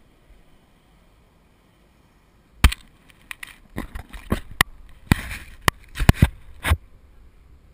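A quick, irregular series of about a dozen sharp, loud knocks and clicks, starting a few seconds in and stopping shortly before the end.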